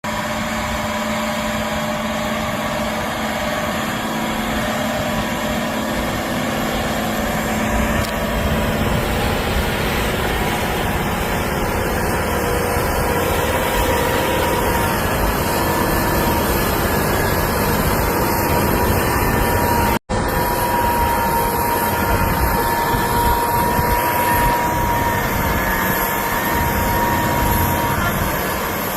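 Case IH Steiger 580's 12.9-litre diesel engine running steadily while working at land leveling, with a thin steady whine over the engine note. The sound cuts out for an instant about two-thirds of the way through.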